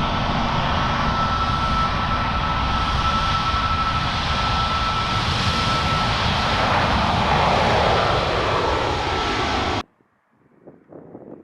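Airbus A350-1000's Rolls-Royce Trent XWB-97 turbofans running at close range, a steady jet rush with a thin whine, the pitch falling as the airliner passes about seven seconds in. The sound cuts off abruptly near the end.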